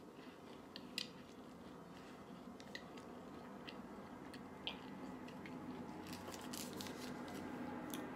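Close-mouthed chewing of a bite of Twix Cookies & Creme cookie bar: faint crunches and small wet mouth clicks, growing busier over the last two seconds.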